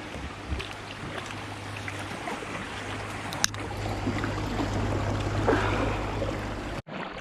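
Water noise around a canoe on a river, with one sharp knock about three and a half seconds in. The sound cuts off abruptly shortly before the end.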